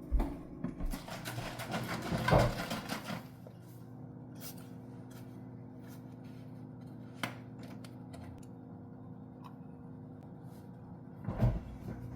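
Household clatter and knocks for about three seconds, then a steady low hum with a few sharp clicks and a short clatter near the end.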